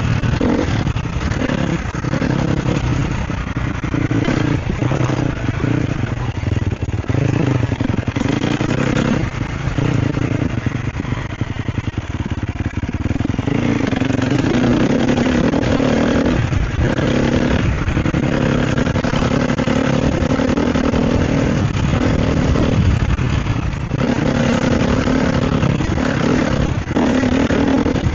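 Sherco SEF 250 four-stroke single-cylinder dirt-bike engine being ridden, its revs rising and falling with the throttle. There are quieter stretches and several brief drops where the throttle is shut.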